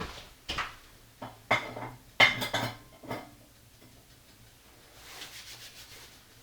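Kitchenware clinking and knocking: about six sharp clinks in the first three seconds, the loudest a little past two seconds in, followed by soft rustling.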